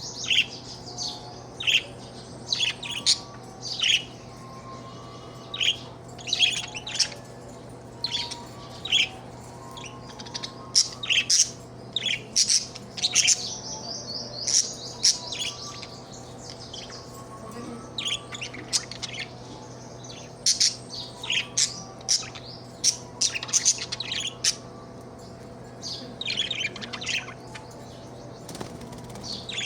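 Budgerigar chirping in short, sharp calls at an irregular pace, with a longer warbling stretch about halfway through, over a steady low hum.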